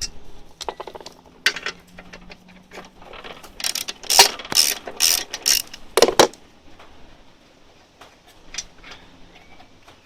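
Socket wrench ratchet clicking in short bursts as bolts are undone, loudest around the middle.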